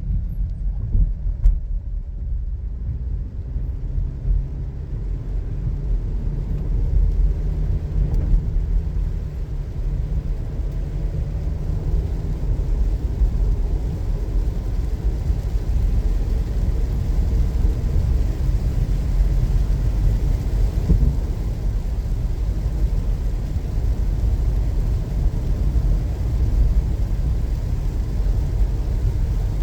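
Steady low rumble of a car's road and engine noise heard from inside the moving car on a rain-wet road, with a brief knock about a second in.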